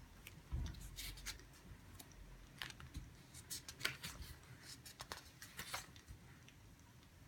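Faint, irregular clicks and rustles of paper and stationery being handled at a study desk.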